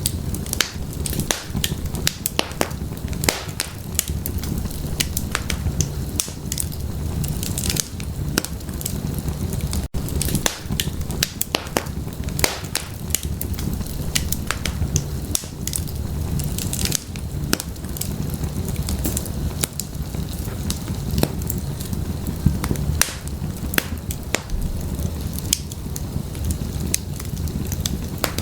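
Wood fire in a fireplace crackling, with many irregular sharp pops and snaps over a steady low rumble of the flames. There is a split-second break in the sound about ten seconds in.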